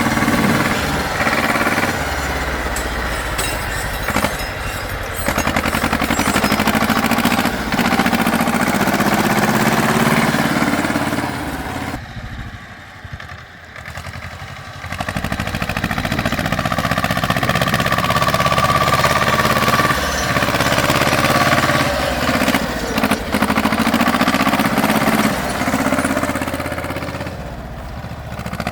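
Tractor engines running and revving, the pitch rising and falling with the throttle, easing to a quieter stretch about twelve seconds in before picking up again.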